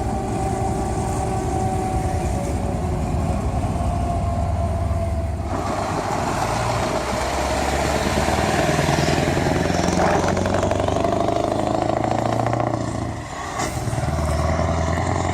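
Scania R500's V8 engine running through an open exhaust pipe, a steady low drone. About five and a half seconds in it turns louder and rougher, dips briefly near the end, then picks up again.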